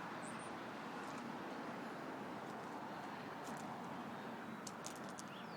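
Steady low outdoor background noise, a faint even hiss, with a few faint clicks in the second half and a brief high chirp near the end.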